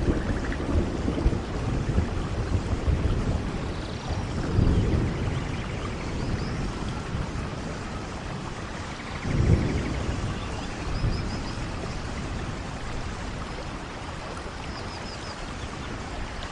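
Steady rainforest rain with low thunder rumbling up twice, about four and nine seconds in, and a few faint high chirps over the rain.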